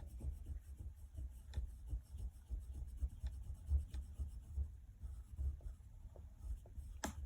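Pencil sketching on paper: soft, irregular back-and-forth strokes as a shape is drawn and darkened, with one sharp tick near the end.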